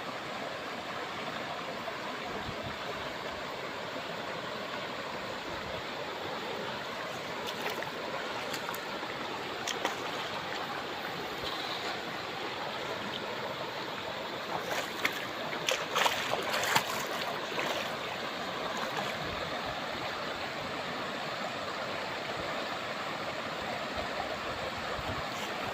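Shallow river water flowing steadily over stones, with a few short, louder splashes a little past halfway.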